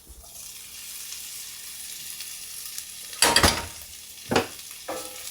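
Food frying and sizzling in a pan, a steady hiss, with two louder knocks about three and four seconds in.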